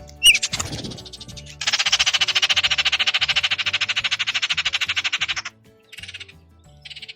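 Baltimore oriole giving its dry chatter call: a short falling whistled note, then a fast, even rattle lasting about four seconds, then two short rattles near the end.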